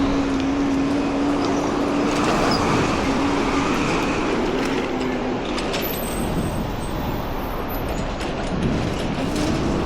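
Busy city street traffic: cars and buses running past in a continuous rush. A steady engine drone fills the first half, and an engine climbs in pitch near the end.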